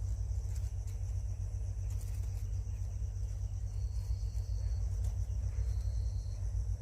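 Steady high insect chorus over a constant low rumble, with two thin, even high tones, each about a second long, about four and about six seconds in.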